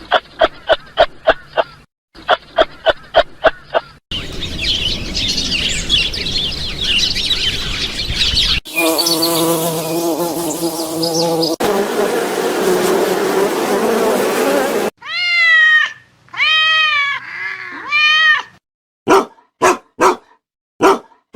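A string of short animal-sound clips cut one after another. First come rapid repeated chirps, about six a second, then a dense chorus of calls. A buzzing drone follows, then four arching calls that rise and fall in pitch, and several short sharp calls near the end.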